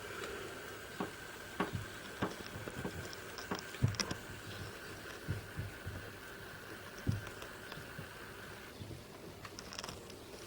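Model train running on a layout: irregular light clicks of wheels over rail joints and track, with a faint steady whine that stops about nine seconds in.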